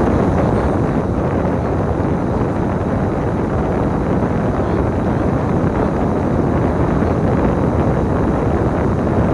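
Steady running noise of a moving bus: an even engine and road rumble with no distinct events.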